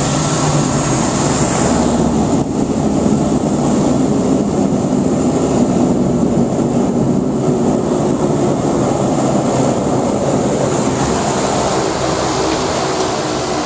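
Cessna 208 Caravan's Pratt & Whitney PT6A turboprop running steadily: a loud, even rumble with a constant high whine.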